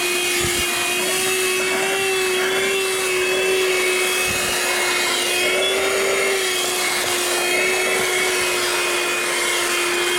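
Audew 12V DC handheld car vacuum cleaner running steadily while sucking up dirt from a floor: a steady motor hum with a slight waver in pitch over the rush of air.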